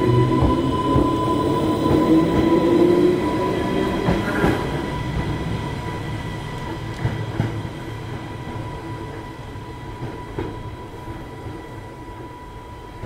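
Island Line Class 484 third-rail electric train, rebuilt from former London Underground D78 stock, pulling away and receding, its running fading steadily. The wheels click a few times on the track as it goes.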